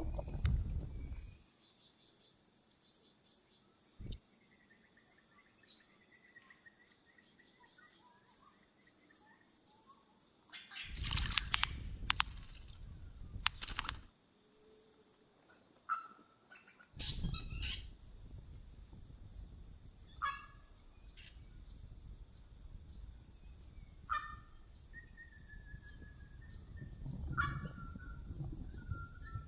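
Wild birds calling, with a fast, even run of high chirps throughout and scattered lower calls and whistles. Two longer rushes of noise come in, about eleven and seventeen seconds in.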